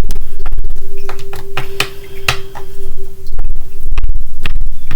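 Scattered sharp clicks and taps of tarot cards being handled, over a loud steady low hum. A faint held tone sounds from about a second in until nearly the end.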